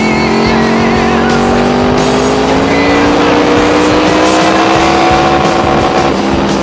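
Honda VFR800 Interceptor's V4 engine under acceleration, its pitch climbing smoothly for about six seconds as it pulls through the revs, then dropping near the end as the throttle is eased or a gear is changed. Wind rush sits underneath.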